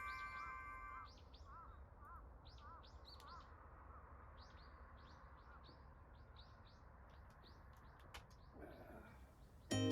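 Small birds chirping: a string of short, high calls repeated about two to three times a second, faint over a low background hush.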